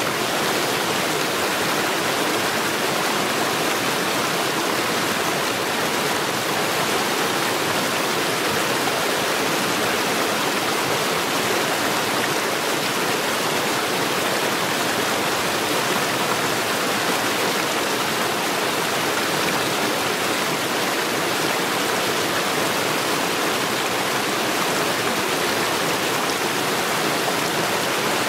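Mountain stream rushing steadily over stones, a constant even water noise with no change.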